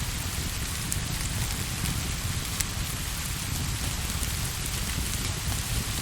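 Steady rain falling on a surface, with a low rumble underneath and a couple of sharp ticks.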